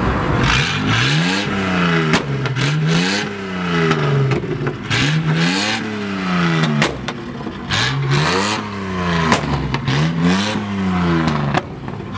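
A car engine revved hard over and over, climbing and dropping in pitch about once every second and a half, with sharp cracks from the exhaust between revs.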